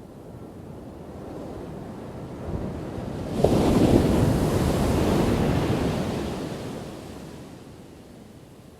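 A single ocean wave breaking: a low rush builds, then crashes suddenly about three and a half seconds in, and the surf washes out and fades over the next few seconds.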